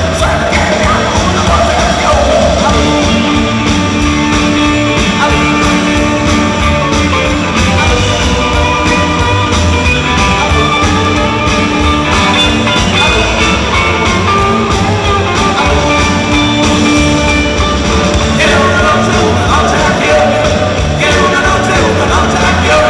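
Rock and roll music with singing and guitar, played at a steady loud level; the voice comes in near the start and again near the end, with instrumental playing between.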